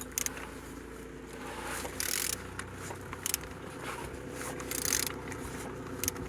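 Used Renault K9K 1.5 dCi diesel engine being turned over by hand, with two short hissing scrapes about two and five seconds in over a steady low hum; it turns freely, a sign the engine is not seized.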